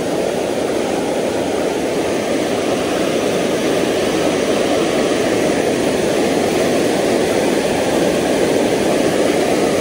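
Steady rushing of creek water, an even roar with no pitch to it that holds the same level throughout.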